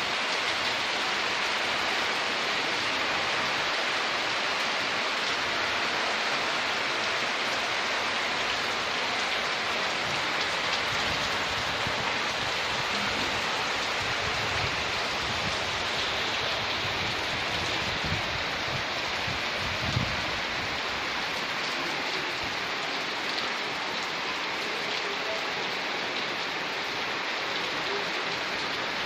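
Heavy rain falling steadily, a dense even hiss, with a few low knocks in the middle and a short louder thump about twenty seconds in.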